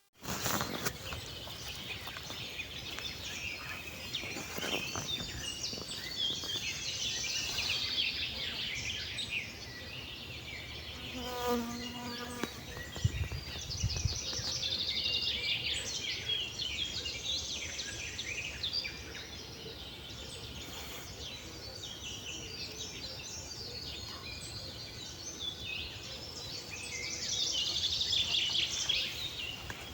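Many songbirds singing at once in a spring forest, a dense morning chorus of quick chirps and trills, with a brief low thump about thirteen seconds in.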